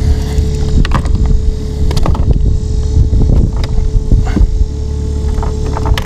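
Irregular knocks, taps and clatter of hands and gear against the kayak while a hooked smallmouth bass is brought in. Under them run a steady hum and a low rumble of wind on the microphone.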